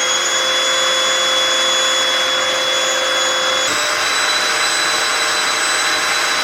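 Bagged canister vacuum cleaner running at full suction with a new empty bag, driving an air-driven turbo brush: a steady rush of air with a thin whine, which steps up slightly in pitch a little past halfway.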